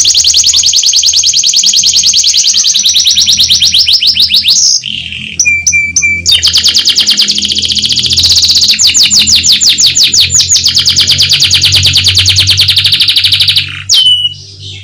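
Canary singing long fast rolling trills of rapidly repeated high notes, broken about five seconds in by a short pause with three separate lower notes, then trilling on until another break near the end with a falling whistle. A faint low hum runs beneath.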